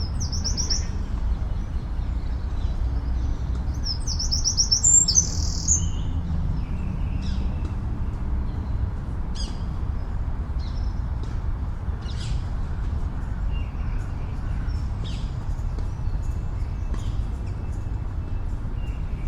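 Songbirds singing and chirping over a steady low rumble of city traffic. A fast, high trill comes just after the start and a louder one around four to five seconds in, followed by scattered short chirps.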